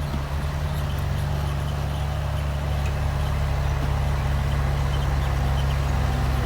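Komatsu bulldozer's diesel engine running steadily under work, a deep, even drone.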